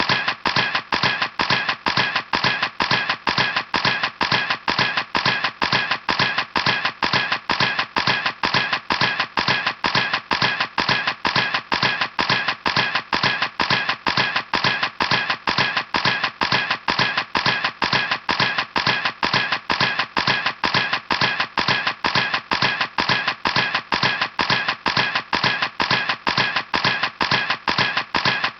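Camera shutter clicking over and over in a fast, even series, each click alike, with no pause.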